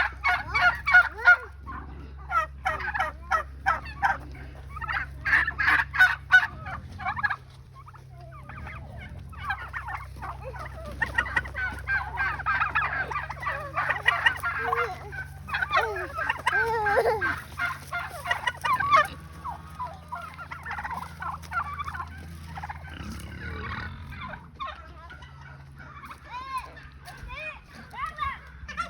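Turkeys gobbling in repeated bursts of rapid rattling calls, with a thick stretch of overlapping gobbles around the middle that thins out toward the end. A steady low hum runs underneath.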